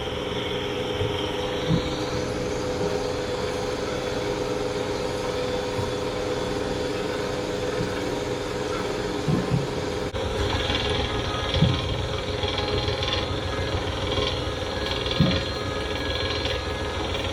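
Boat engine running steadily, with a few dull thumps; the sound changes abruptly about ten seconds in.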